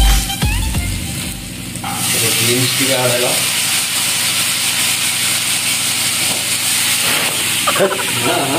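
Chopped green beans and onions frying in hot oil in a steel pan: a steady sizzle that starts suddenly about two seconds in, as the beans go into the oil. Background music fades out just before it.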